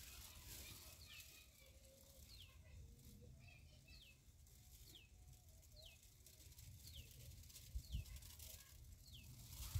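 Faint bird calling: a short high chirp that falls in pitch, repeated about once a second, over a low rumble. A low thump comes about eight seconds in.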